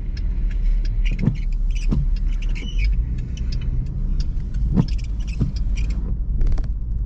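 Car interior noise while driving: a steady low rumble of engine and tyres on the road, with a few light knocks and rattles.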